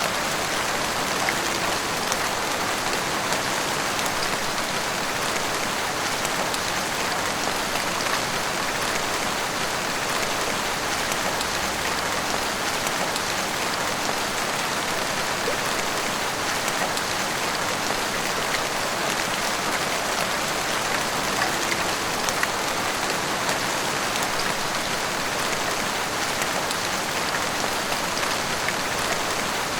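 Heavy rain pouring steadily, an even hiss of falling water with scattered individual drop hits.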